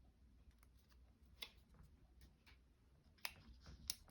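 Near silence with a few faint, short clicks and taps as craft papers and stickers are handled on a desk, the clearest about a second and a half in and twice near the end.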